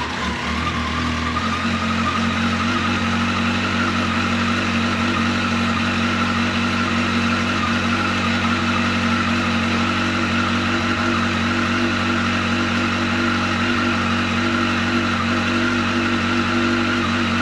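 2002 Yamaha XJR1300's air-cooled inline-four engine idling steadily through freshly fitted original stock exhaust silencers, just after starting. The idle settles slightly about a second and a half in.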